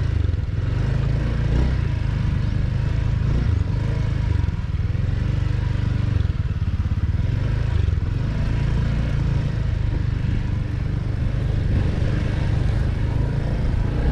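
Motorcycle running steadily while being ridden, a constant low engine-and-road rumble.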